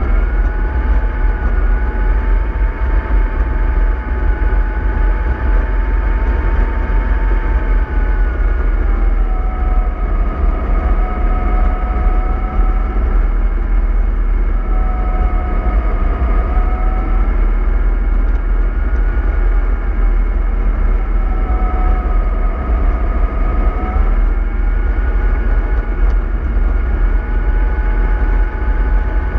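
MAN 24.310 bus on the move: a heavy, steady engine rumble with a whine above it that slowly rises and falls in pitch as the speed changes.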